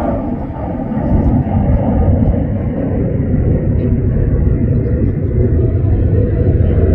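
Singapore Airlines Cargo jet airliner's engines making a loud, steady low noise as it comes in to land.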